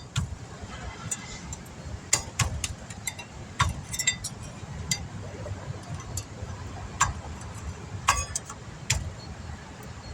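Irregular metallic clicks and clinks of hand tools and brake parts being handled during a brake pad job, about a dozen sharp taps spread unevenly, over a steady low rumble.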